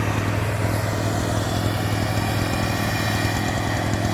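Brush cutter's small engine running steadily with a constant hum. It does not rev up or down.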